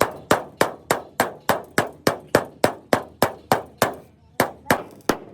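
Hammer striking metal in quick, even blows, about three a second, each with a short ring, pausing briefly about four seconds in before carrying on.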